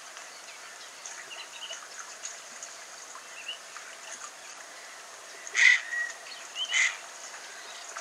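Shoreline ambience: a steady wash of shallow water with scattered faint bird chirps, and two louder short bird calls about five and a half and seven seconds in.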